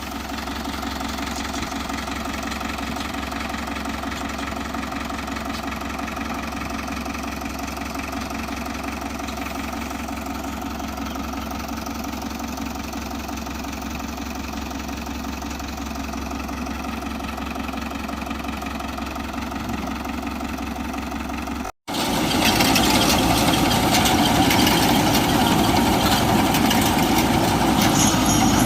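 Sonalika Worldtrac 60 RX tractor's diesel engine idling steadily. About 22 seconds in, after a brief cut, it is heard louder and rougher.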